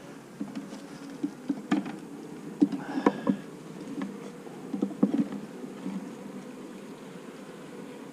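Honeybees buzzing at an opened hive, a steady hum, with a run of light knocks and clicks in the first six seconds.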